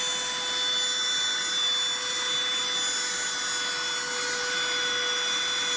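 Cordless handheld vacuum running steadily on its second, higher power setting: an even, high motor whine.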